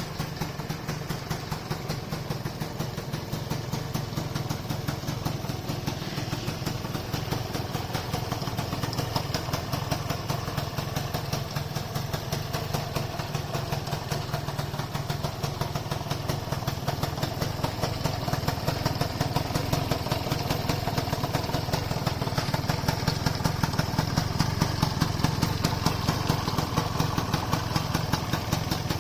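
Customized Gilera Runner FXR180SP scooter's single-cylinder two-stroke engine idling steadily through its exhaust, with a rapid even pulse. It gets somewhat louder from about the middle on.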